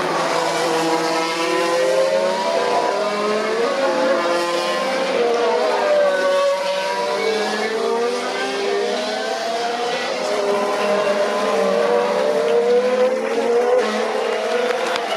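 Several 2019 Formula 1 cars running together, their turbocharged V6 hybrid engines heard at once. The overlapping engine notes rise and fall and cross each other as the cars accelerate, lift and pass.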